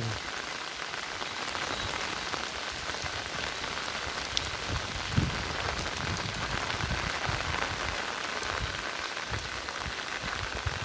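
Steady rain falling and pattering on surfaces, with a single dull knock about five seconds in.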